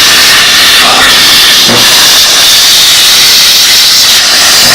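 Steam cleaner blasting a jet of steam onto greasy engine parts, a loud steady hiss.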